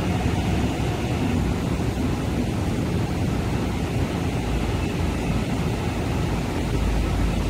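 MTR East Rail Line R-train electric multiple unit pulling away from the platform, giving a steady low rumble of wheels and running gear over a broad hiss.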